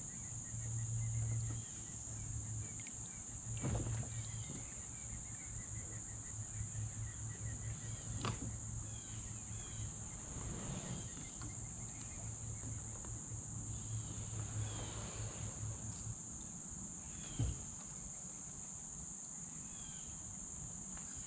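Steady, high-pitched chorus of crickets and other insects, with a few sharp knocks at intervals, the loudest near the end.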